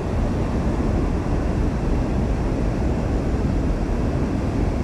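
Steady low rumble of a Mini Crosser mobility scooter on the move, its motor and tyres running over rough ground.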